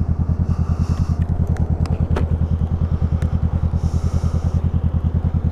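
Honda Rebel 500's water-cooled parallel-twin engine, fitted with an aftermarket exhaust, idling with a steady, even low pulsing while the bike sits still.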